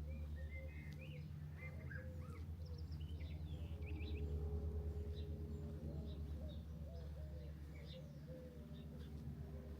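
Several small songbirds chirping and trilling over a steady low rumble.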